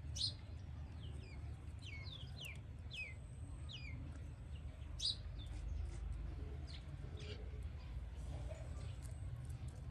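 Small birds chirping: short, quick chirps that slide downward in pitch, several in a row in the first few seconds, then scattered ones, over a steady low rumble.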